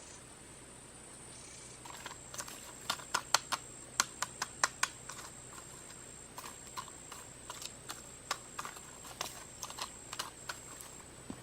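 Irregular sharp clicks and taps, thickest and loudest a few seconds in and then sparser, over a steady high-pitched insect drone.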